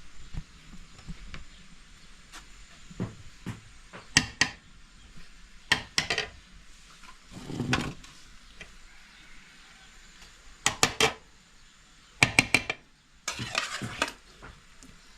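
Cooking utensils knocking and clinking against pots and dishes, several separate sharp clinks, some in quick clusters, with a longer scraping stretch near the end.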